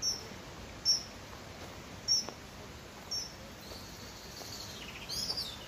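Small bird calling: a short high chirp that drops in pitch, about once a second four times, then a longer drawn-out call and a quick tangled call near the end.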